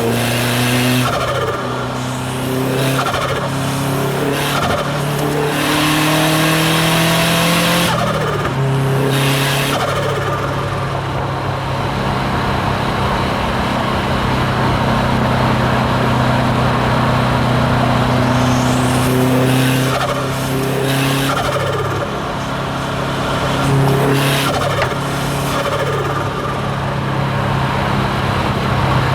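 Subaru WRX STI's hybrid-turbocharged flat-four accelerating and shifting through the gears, its engine note stepping in pitch. Several times the throttle is lifted and there are bursts of hissing turbo flutter and external-wastegate venting.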